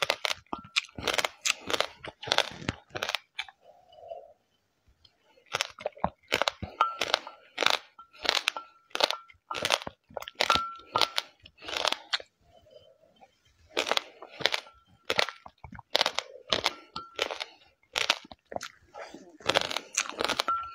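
Close-up crunching and chewing of a mouthful of mixed seeds: dense runs of sharp crackles with short pauses between. A plastic spoon scrapes the inside of a glass mug, with now and then a short thin squeak.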